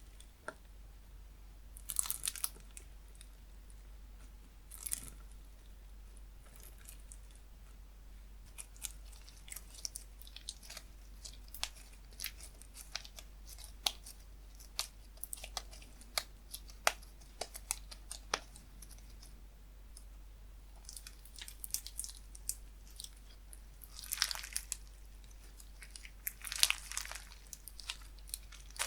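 Slime worked by hand, squished and stretched, giving many small sharp clicks and air-bubble pops, with bursts of denser crackling now and then.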